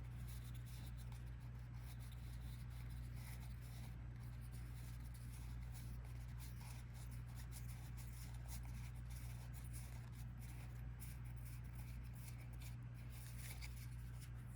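Faint, irregular rubbing and flicking of trading cards being handled and sorted on a table, over a steady low hum.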